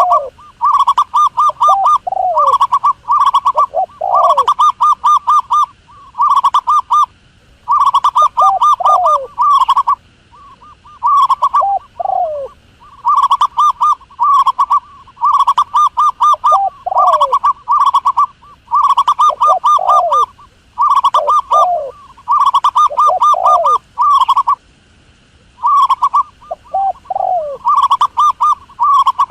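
Dove cooing: repeated bursts of about a second of rapid pulsed coos, each followed by a few falling notes, over and over with short pauses between.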